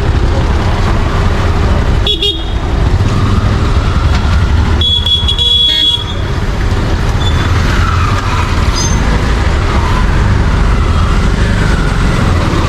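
Busy street traffic rumbling steadily, with a short horn blast about two seconds in and a longer horn blast around five seconds in.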